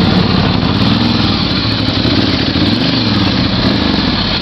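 Motorcycle engine running loud and steady, its pitch rising and falling gently twice as the throttle is worked.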